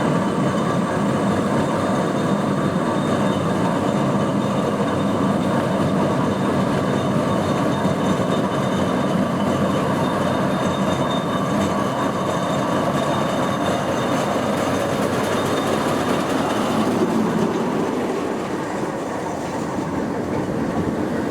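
Steam traction engine running along the road: a steady, dense mechanical noise that eases slightly near the end.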